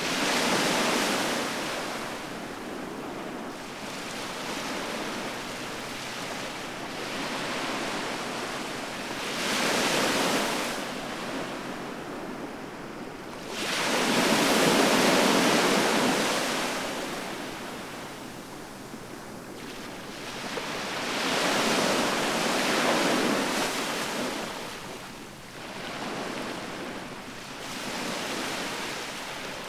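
Ocean surf: waves breaking on the shore in repeated swells, each a rushing surge that rises and fades every few seconds, the biggest about halfway through.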